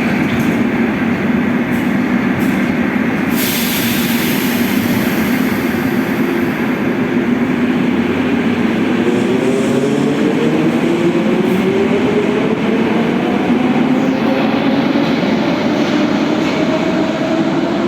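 Moscow Metro train running with a steady rumble and accelerating, its traction motors whining steadily upward in pitch through the second half. About three seconds in a sharp hiss of air starts and fades away over the next few seconds.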